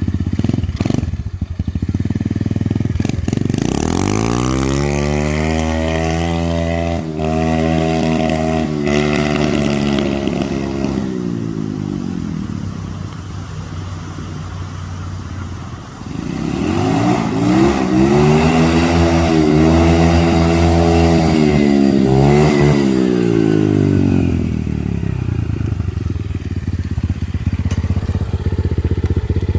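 Dirt bike engine revved up twice and held high for several seconds each time, the pitch wavering while held, then dropping back to a low, rattly idle.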